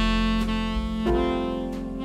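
Slow jazz with a saxophone holding long notes over a walking double bass, the saxophone changing note about once a second.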